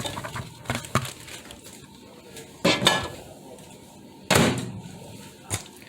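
A few sharp knocks and light clinks while the microwave is wiped down, with two louder knocks a little under three and a little over four seconds in.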